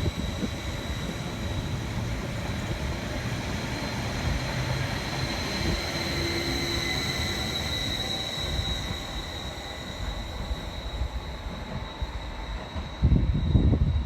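Train moving through the station, a steady running noise with a high whine and a fainter whine below it. Heavy low rumbles start near the end.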